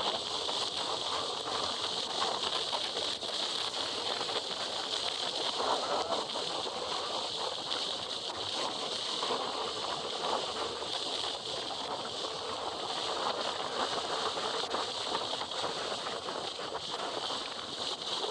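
Steady rushing noise of wind and wet road while riding a motorcycle in the rain, with no distinct engine note.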